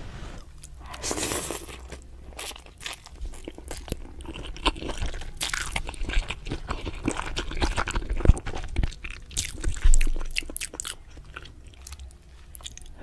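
Close-miked eating sounds: a person chewing and crunching food in irregular clicks and wet smacks, with a couple of louder crunches near the end.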